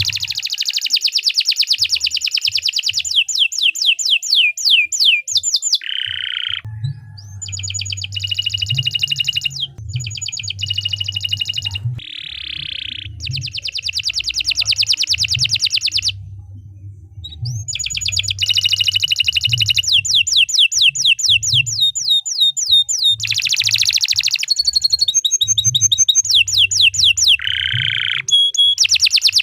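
Domestic canary singing a long, nearly unbroken song of fast rolling trills and warbled phrases, with a brief pause about two-thirds of the way through. A low hum runs faintly beneath.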